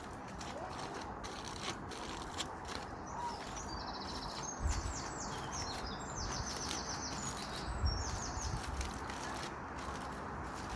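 A songbird singing quick trilled phrases over a steady outdoor hiss, with scattered sharp crackles from a wood campfire and two low thuds midway.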